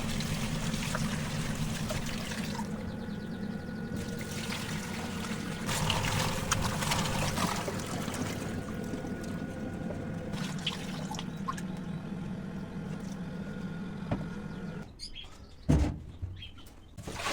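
Water running steadily and splashing into a container, stopping about fifteen seconds in, followed by a single sharp knock.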